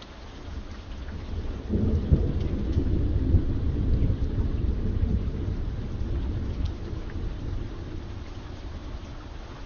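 Steady rain falling, with a deep roll of thunder that swells about two seconds in and slowly fades away over several seconds.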